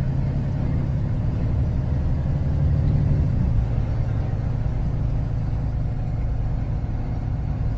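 Diesel engine of a Kenworth T360 concrete agitator truck running under way, a steady low drone heard inside the cab. Its note steps down slightly about three and a half seconds in.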